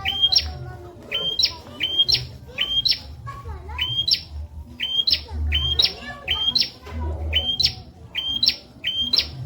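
Prenjak birdsong: a sharp call, a short note that jumps to a higher one, repeated about twice a second in runs, over a faint low rumble.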